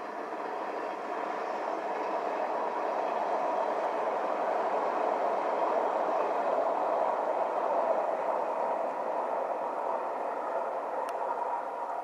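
JR 381 series electric multiple unit, a nine-car train, passing at speed: a steady rolling noise of wheels on rail that builds over the first few seconds, is loudest in the middle, and starts to fade near the end as the last cars draw away.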